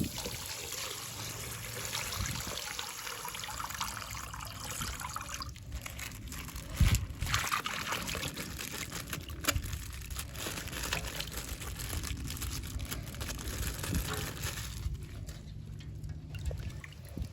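Coloured water pouring and trickling out of a punctured plastic ice-pack bag, with a knock about seven seconds in. The flow thins out about fifteen seconds in.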